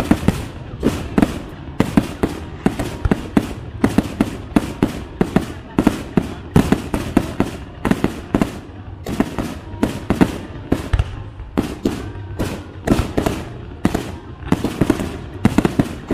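Fireworks display: a continuous barrage of aerial shell bursts, several sharp bangs a second with rumble between them.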